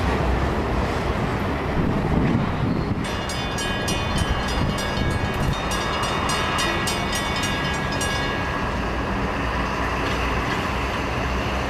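Freight train cars rolling past over the rails with a steady low rumble. From about three seconds in, a railroad grade-crossing bell rings about three strikes a second, then stops about eight seconds in.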